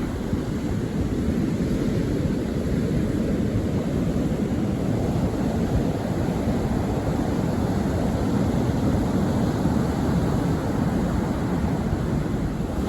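Steady outdoor rushing of wind, heavy on the microphone, with a low rumble and no distinct events.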